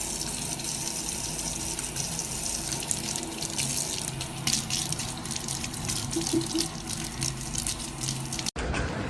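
Steady running water, like a tap running into a sink, which stops abruptly near the end.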